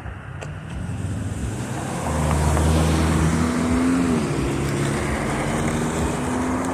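A car's engine and tyres going by close at hand on a street: the noise builds up and grows louder about two seconds in, then holds, with a steady low engine hum.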